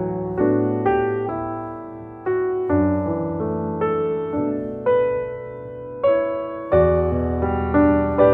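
Slow piano music: chords struck one after another, about one every half second to second, each fading before the next.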